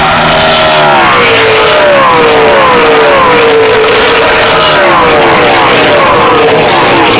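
NASCAR pickup trucks' V8 engines at full throttle going past in a pack, loud and continuous, with the engine pitch sweeping down again and again as truck after truck passes.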